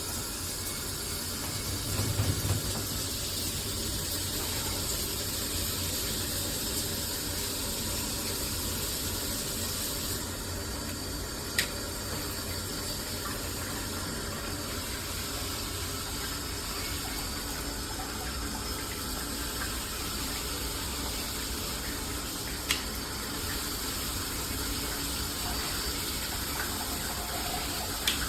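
Water running steadily through a filtered shower head, with a few brief clicks or knocks.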